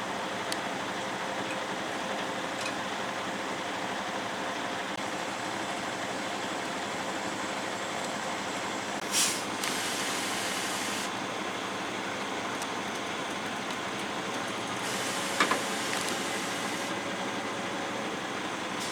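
A vehicle running steadily, with a short hiss about nine seconds in and a couple of sharp clicks about fifteen seconds in.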